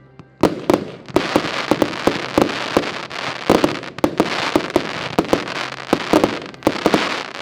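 Diamond Inferno 120-shot compound firework battery firing: a rapid, dense stream of shot reports and crackling. It starts about half a second in and runs without a break.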